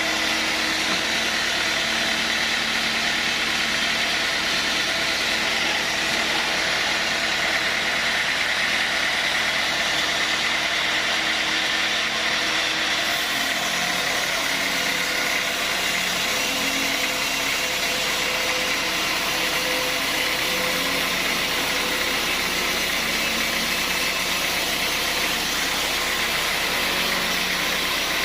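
Sawmill machinery running steadily: a constant loud mechanical noise with a low hum that shifts slightly in pitch now and then.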